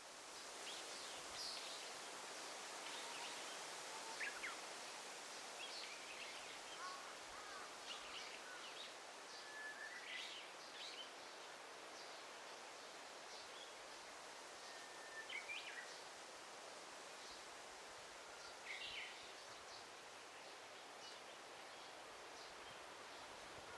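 Faint forest ambience: a steady soft hiss with short bird chirps and calls scattered throughout, a few of them with a brief gliding note.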